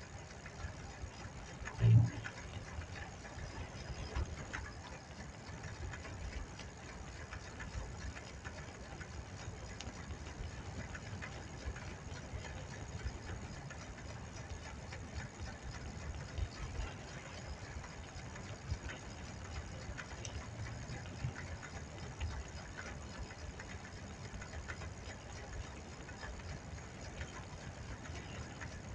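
Bicycle riding noise: a steady low rumble of road and wind with scattered small clicks and ticks, and one loud thump about two seconds in.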